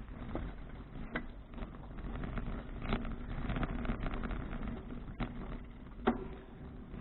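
Riding noise from a 2012 Fuji Touring bicycle: tyres rolling, with wind rumbling on the microphone and frequent small rattles and knocks, a few of them sharper.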